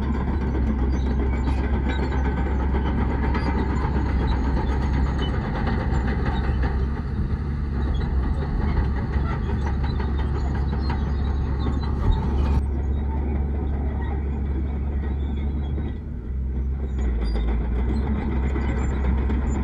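Heavy diesel earth-moving machinery, bulldozer and dump trucks, running steadily with a deep engine rumble. There is a single sharp knock about twelve seconds in.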